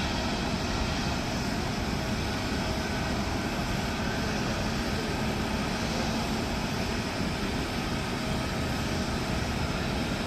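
Jet airliner's engines running steadily: a constant rumble and hiss with faint steady tones on top, with no rise or fall.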